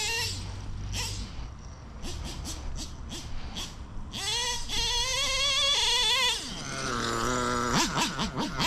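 Nitro RC engine (a modified Novarossi-based .21) in a Traxxas Revo truck: off the throttle for a few seconds with scattered clicks, then revving up again about four seconds in with a wavering pitch. It drops lower about seven seconds in and runs unevenly near the end before picking up again.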